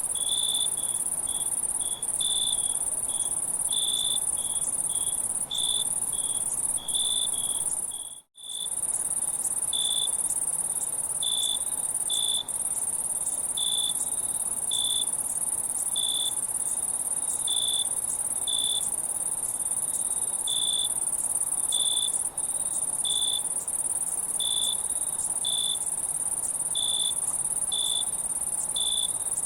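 Insect chorus: a steady high shrill drone with a separate chirp repeating unevenly, about one or two times a second. The sound cuts out briefly about eight seconds in.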